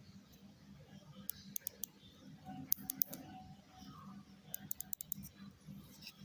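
Sharp plastic clicks from a small SPC SMW-10 wireless mouse, in three quick runs: a few about a second and a half in, a few more near three seconds, then about eight in rapid succession near the end.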